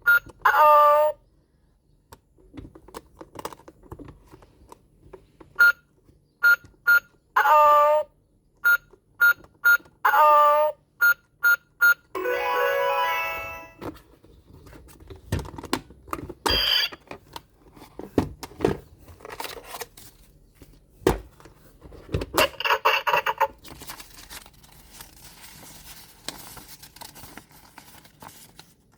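Electronic keypad of a toy ATM money bank beeping as buttons are pressed, a series of short single-pitch beeps broken up by brief electronic jingles, with a longer tune about twelve seconds in and scattered plastic clicks.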